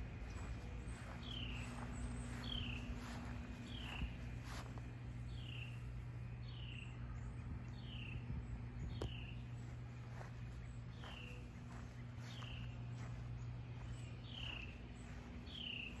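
A bird calling over and over, a short downward-sliding note about once a second, over a steady low hum.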